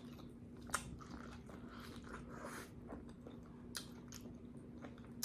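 Close-miked chewing of sweet corn, with soft wet mouth smacks and a few sharp clicks, over a faint steady hum.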